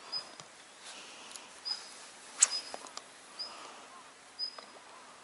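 A small bird calling, a short high chirp repeated about once a second, with a sharp click about two and a half seconds in.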